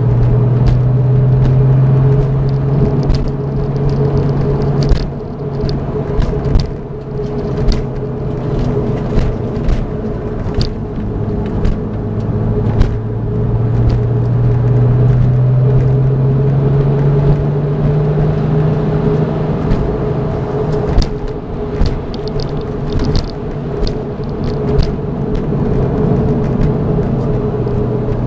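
2002 Porsche 911 Turbo's twin-turbo flat-six running hard on a lapping circuit. The engine note eases off about five seconds in, climbs steadily through the middle as the car accelerates, and drops back again. Sharp rattles and knocks come through all along.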